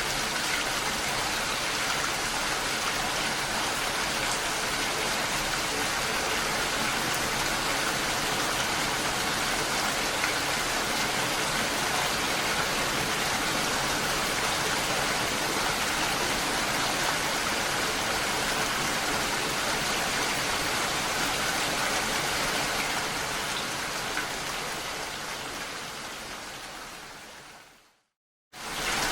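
Steady rain and falling water, an even hiss. It fades out over the last several seconds to a brief moment of silence, then starts again.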